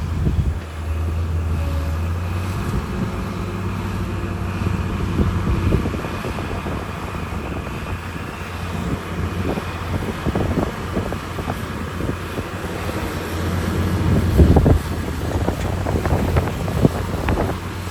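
Heavy diesel earthmoving machinery running with a steady low hum, with scattered clanks and knocks that grow more frequent in the second half.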